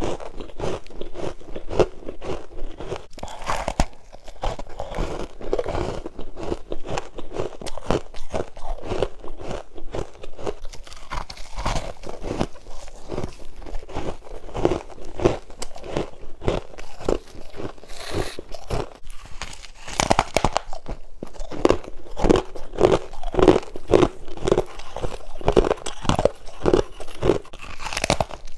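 Close-up crunching of freezer frost being bitten and chewed, a dense run of quick crackles. It settles into steady chewing of several crunches a second in the later part.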